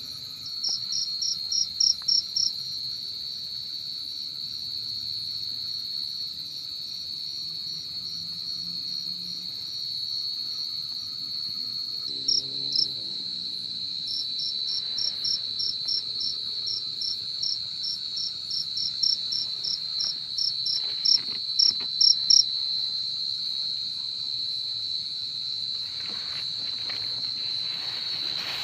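Crickets calling at night: a steady high-pitched trill goes on throughout, with one close cricket's loud pulsed chirps in runs near the start and again from about halfway to three-quarters of the way in.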